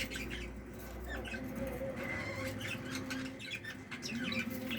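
Budgerigars chirping and squawking in quick, irregular short calls, over a steady low hum.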